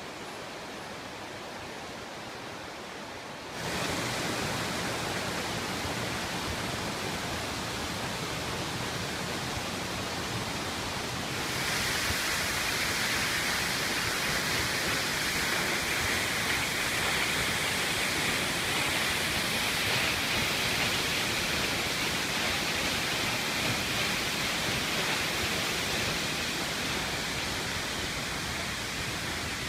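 Waterfall rushing steadily. It gets louder in two steps, about three and a half seconds in and again about eleven seconds in, the second step adding more hiss.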